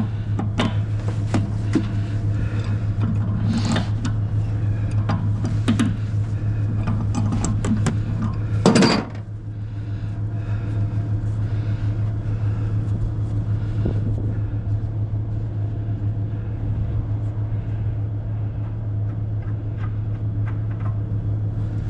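Scrap metal clinking and clanking as parts are worked loose and handled, with one loud clang about nine seconds in, over a steady low hum.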